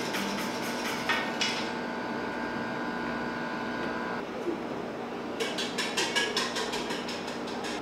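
Light clicking and clattering of kitchen utensils or dishes: a few sharp clicks at first, then a quick run of taps in the second half. A steady appliance hum stops about four seconds in.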